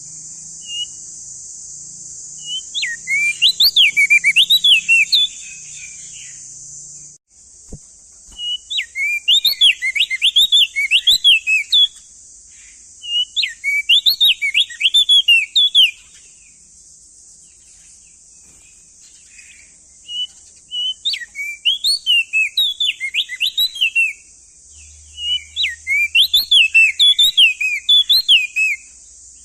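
Male opior jambul (crested white-eye) singing: five bursts of quick, bouncing whistled notes, each lasting about three seconds, with short pauses between them, over a steady high hiss.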